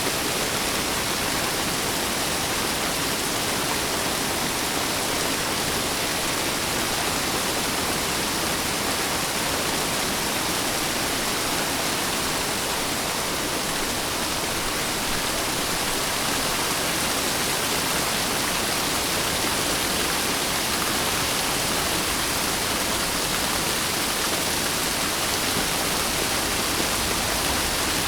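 Steady rain, an even unbroken hiss with no distinct drops, thunder or change in level.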